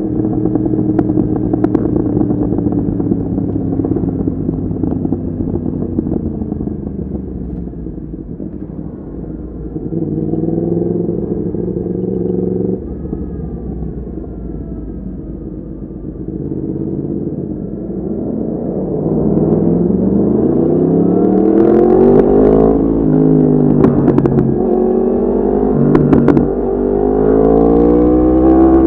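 Yamaha MT-10's crossplane inline-four engine through an Akrapovic exhaust, ridden on the road. The revs fall off the throttle for the first several seconds, then climb hard from about two-thirds of the way through, with quick drops in pitch at gear changes and a few sharp cracks near the end.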